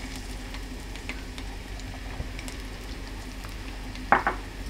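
Chopped garlic sizzling in hot oil in a frying pan: a steady sizzle with scattered small crackles. A short vocal sound comes briefly about four seconds in.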